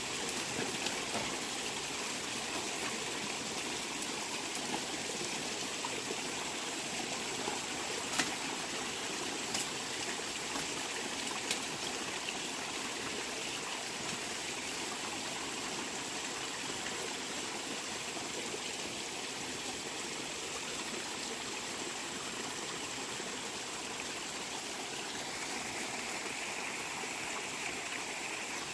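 Water running steadily, like a stream, with a few faint clicks about eight and eleven seconds in.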